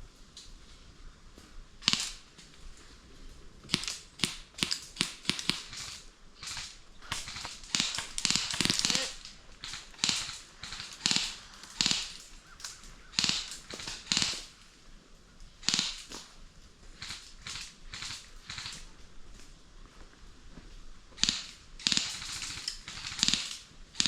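Airsoft guns firing: sharp, irregular pops, single shots and quick strings of shots, scattered through the whole stretch.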